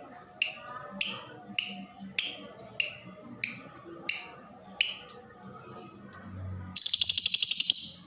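A lovebird giving eight sharp, downward-sliding chirps at an even pace, then after a short pause a loud, fast chattering trill of about a second near the end. This is the lovebird's 'ngetik' ticking call running into a 'ngekek' trill, used to stir other lovebirds into calling.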